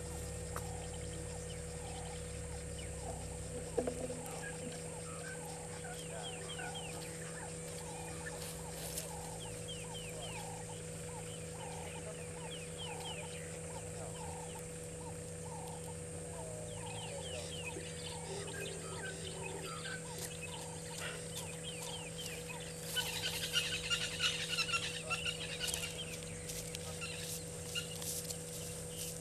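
Wild birds calling: a long series of short repeated notes, about two to three a second, with higher chirping over it, and a louder flurry of chirps near the end.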